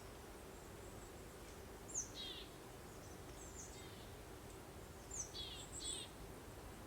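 Small birds chirping in short, high, falling calls, a few times, over a steady soft background hiss of breeze.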